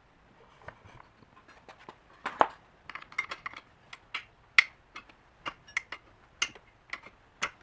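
Metal hand tools and small engine parts clinking and clacking against each other and a hard work surface, in a string of irregular sharp clicks during engine disassembly, the loudest about two and a half seconds and four and a half seconds in.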